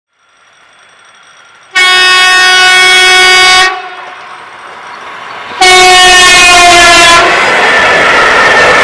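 Locomotive horn (typhon) sounding two long blasts of about two seconds each, the second with a slightly different tone. A steady loud rushing noise of the running train follows the second blast.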